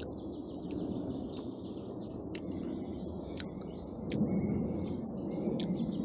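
Small birds chirping and calling, with several short sharp chips, over a steady low rustling noise that grows a little louder about four seconds in.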